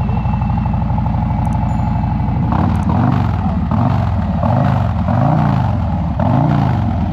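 Motorcycle engine idling, then revved in about five quick throttle blips starting a couple of seconds in, through an exhaust freshly fitted with new baffles.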